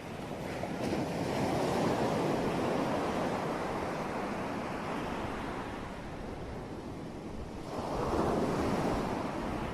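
Sea waves washing in, a steady rush that swells twice, about a second in and again near the end, with some wind.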